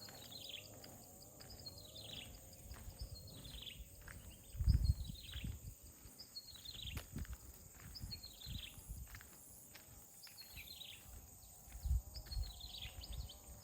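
A bird repeating a high call that falls in pitch, about once a second, over footsteps on a path with a few heavier low thumps.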